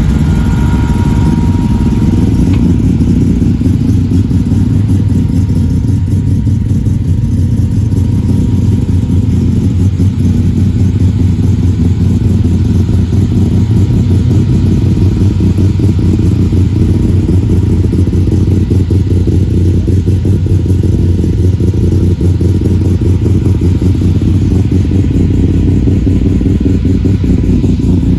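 A muscle car engine idling loudly nearby: a steady, low, pulsing rumble that holds without revving.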